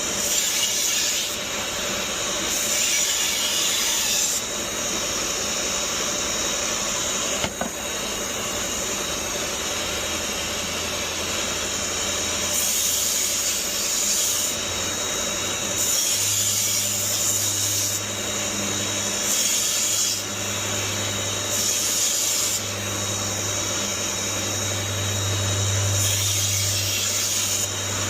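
Chef's knives ground on a motorised sharpener: the machine runs steadily while a blade is drawn across it in repeated passes, each pass adding a brighter, higher grinding hiss. One sharp click about seven and a half seconds in.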